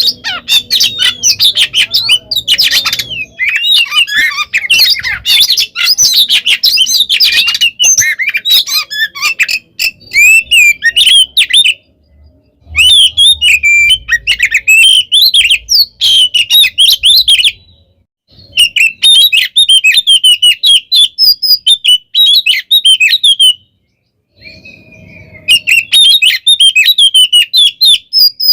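Oriental magpie-robin (kacer) singing a loud, rapid, varied song of whistles and chirps. It pauses briefly about twelve and eighteen seconds in, and drops out for a longer lull before starting again near the end.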